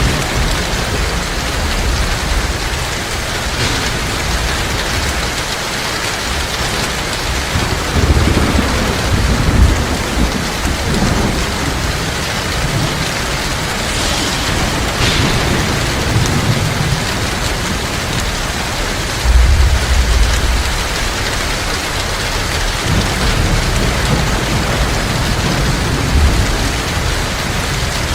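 Heavy rain falling steadily, with low rolls of thunder rumbling twice, about a third of the way in and again past the middle.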